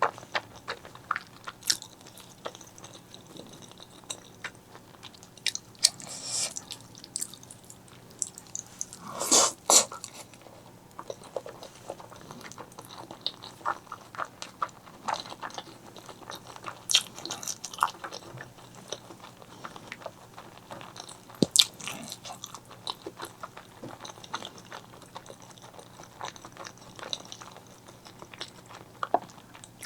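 Close-miked eating: chewing with many small wet clicks and smacks, and a louder slurping or sucking burst about nine seconds in.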